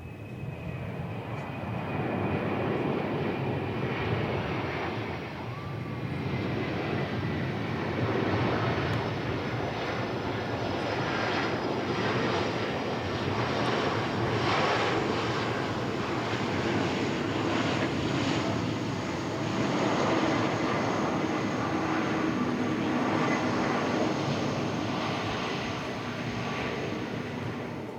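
Jet engines of a Boeing 747 Dreamlifter, a four-engine turbofan freighter, running loud on its landing. High engine whines slowly fall in pitch over a steady jet rumble.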